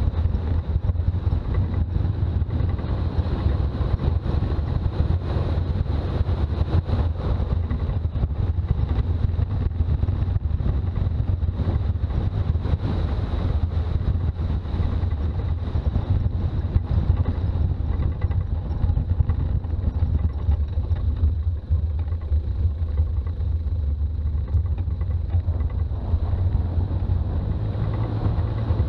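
Toyota Land Cruiser BJ40 on the move, a steady low engine and road drone with no let-up.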